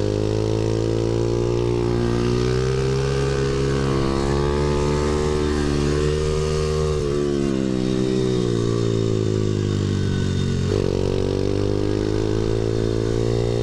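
Pit bike's small single-cylinder engine at full throttle on a lap, the revs climbing and holding, sagging about six seconds in, then dropping suddenly near eleven seconds before climbing again.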